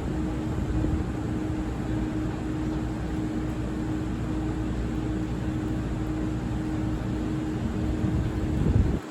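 Train at a railway station running with a steady low rumble and a constant hum, which cuts off suddenly near the end.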